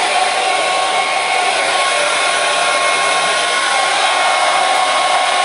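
Hair dryer running steadily: a continuous, unchanging blowing whoosh with a faint motor whine.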